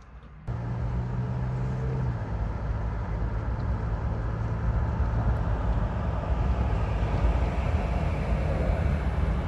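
Moving car's road and wind noise, cutting in suddenly about half a second in and staying steady with a low drone underneath, as with a window open while driving.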